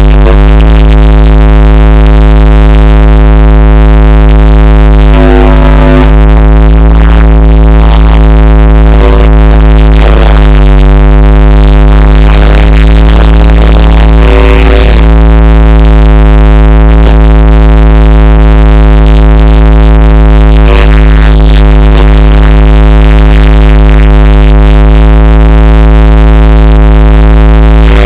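Loud, sustained electronic synthesizer drone: one steady low pitch held throughout with a heavy bass hum beneath, its upper tones wavering and swelling.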